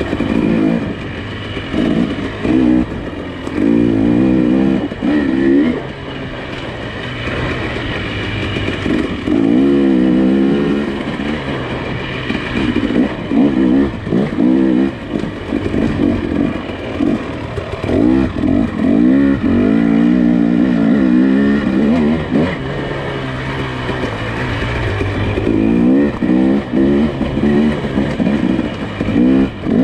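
Nissan Pathfinder SUV engine running on a trail, its pitch rising and falling again and again as the throttle is worked.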